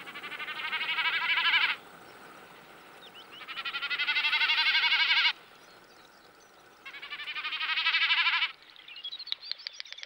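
A bird calling in three loud bursts of rapid, rolling calls, each lasting about one and a half to two seconds and growing louder toward its end, with short pauses between them.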